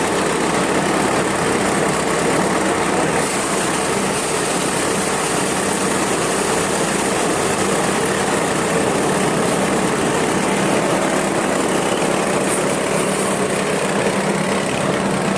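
An engine running steadily at a constant speed, with a dense mechanical noise over a low, even hum.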